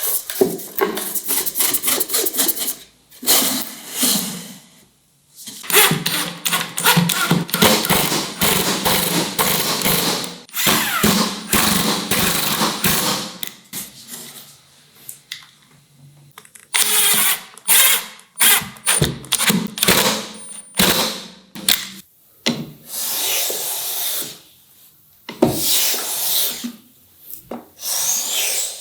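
Woodworking tools working wood, in a long run of short, irregular bursts and strokes with brief pauses between them.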